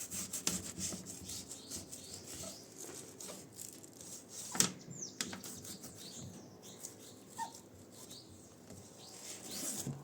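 Hand scrubbing: repeated rubbing strokes, busiest in the first half, with one sharp knock about halfway through. Short falling chirps, likely birds, are heard around the middle and near the end.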